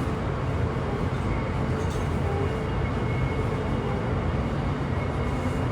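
Inside a JR East E235-1000 series electric train: a steady rumble of the train running on the rails, with faint steady tones above it.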